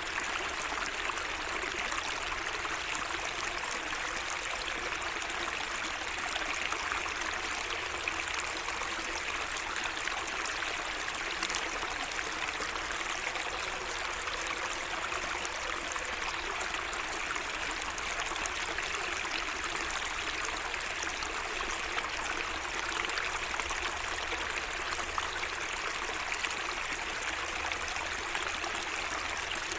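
Water in a small garden waterway, running and trickling steadily without a break.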